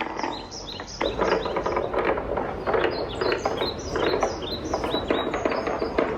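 Wooden balls rolling and clattering along a wooden marble run: dense rapid knocks of wood on wood with many short, high ringing notes, thinner for a moment about half a second in, then busy again.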